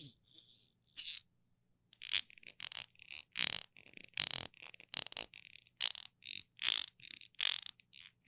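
Close-up sticky ASMR sounds: something tacky is pressed and pulled away over and over, making a string of short crackling peels, one or two a second, after a brief pause near the start.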